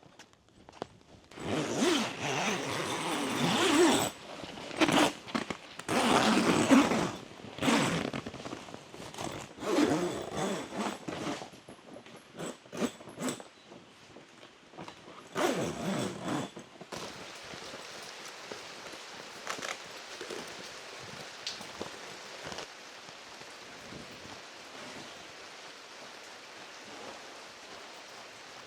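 Loud rustling and scraping bursts, each one to two seconds long, for about the first seventeen seconds, then a steady hiss of rain.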